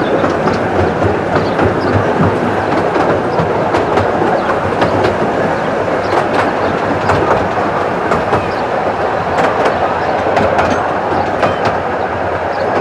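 Ride on a miniature railway train: steady rumble of the carriage wheels on the track, with frequent clicks and clacks over the rail joints.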